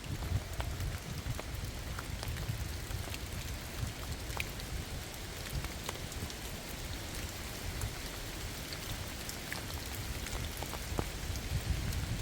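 Steady rain, with scattered sharp drip ticks and a low rumble underneath.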